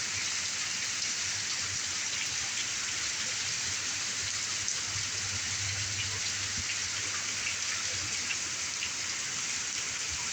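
Heavy rain pouring down, a steady dense hiss of rain with scattered ticks of individual drops.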